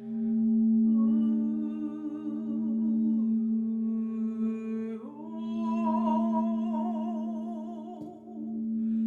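A singing bowl holds a steady, ringing drone while a woman's voice sings long, wordless notes with a slow vibrato over it, moving to a new, higher note about five seconds in.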